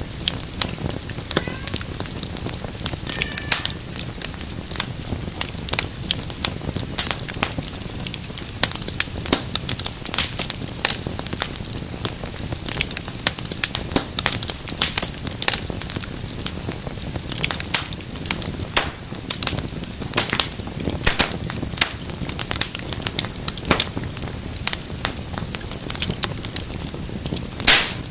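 Wood fire crackling steadily, with many sharp snaps and pops over a low rumble of flame and one louder pop near the end.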